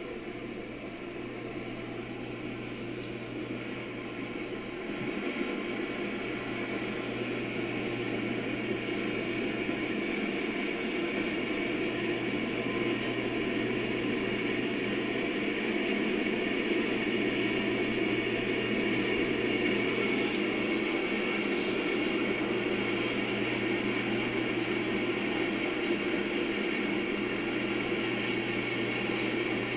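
A loaded coal train passing at a distance: a steady rumble and rolling hiss from the hopper cars that grows louder over the first half as the rear pusher diesel locomotives draw near.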